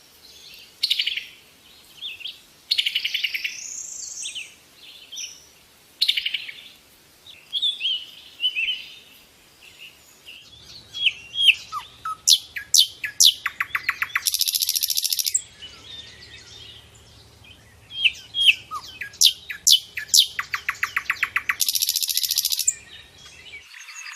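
A songbird singing a long, varied song: short whistled and chirping phrases separated by pauses, then from about halfway a fast run of sharp notes broken twice by a harsh buzzy burst.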